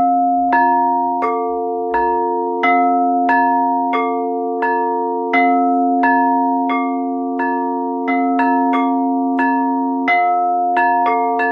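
Steel tongue drum (glucophone) played in a slow melody: single metal notes struck about every two-thirds of a second, a little faster near the end, each ringing on and overlapping the next.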